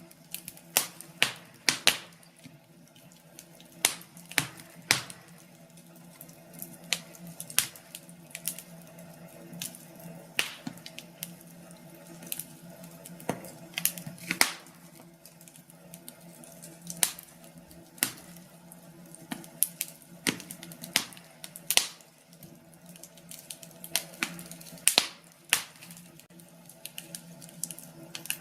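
Wood fire in a fireplace crackling: irregular sharp pops and snaps, sometimes several in quick succession, over a low steady hum.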